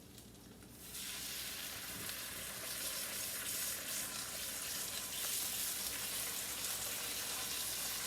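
Tilapia fillets going into hot melted butter and olive oil in a frying pan: about a second in the sizzling jumps up suddenly and then holds as a steady hiss.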